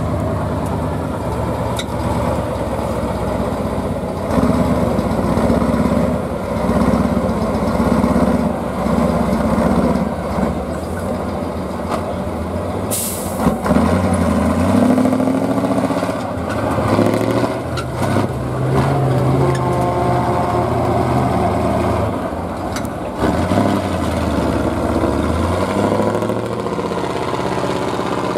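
Competition trial truck's engine labouring and revving up and down repeatedly as the truck crawls over off-road terrain, with a short sharp hiss of air from the truck about 13 seconds in.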